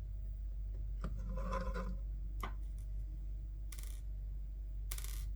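Small plastic headset parts and screws being handled: a scraping rub with a click about a second in, another sharp click, then two short rustling scrapes near the end, over a steady low hum.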